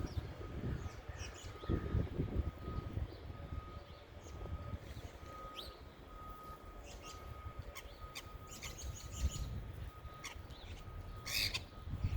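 Small wild birds chirping in short, scattered calls, with a louder quick burst of chirps near the end, over a low rumble of background noise.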